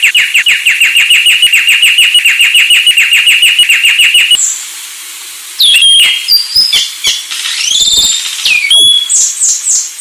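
Anis Sulawesi, a thrush kept as a songbird, singing: a fast trill of about ten notes a second for the first four seconds, then, after a short pause, a run of varied whistled notes and sweeping phrases.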